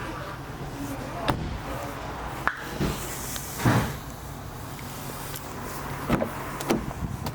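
A series of short knocks and clunks from handling a car, about six in seven seconds and the heaviest a little past the middle, over a steady low hum.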